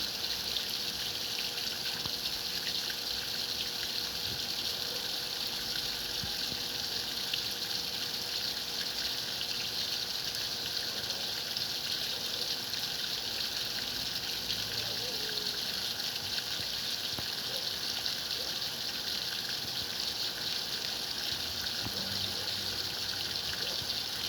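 Water running steadily into a Whirlpool washing machine's tub, a constant even rush with no change.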